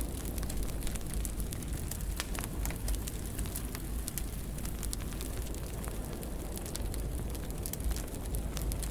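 Fire in a fireplace crackling, with many irregular sharp pops and snaps over a steady low rumble of the flames.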